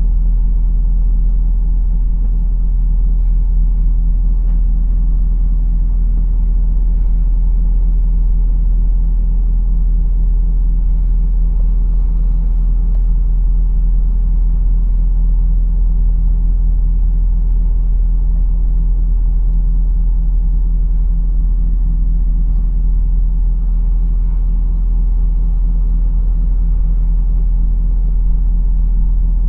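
Lorry's diesel engine running steadily with road rumble, heard from inside the cab: a constant low hum that does not change.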